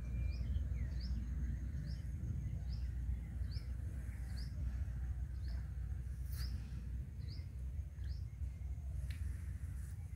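A bird calling a short, rising chirp over and over, about every two-thirds of a second, over a steady low rumble.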